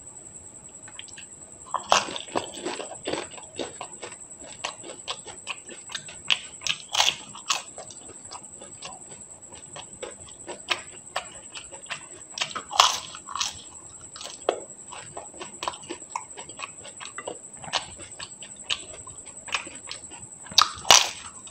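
Close-miked crunching and chewing of crisp pani puri (golgappa) shells: a run of irregular sharp crackles, with louder crunches as each puri is bitten, about four times in the stretch. A thin steady high-pitched tone runs underneath.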